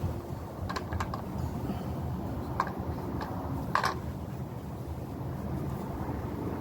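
A few light clicks and taps from small paint bottles and supplies being handled, over a steady low rumble.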